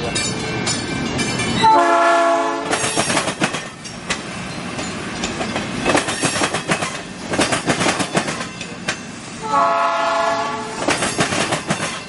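South Shore Line electric commuter train passing close by, sounding its horn twice, each blast about a second long with the second near the end, while its wheels clack steadily over the rails.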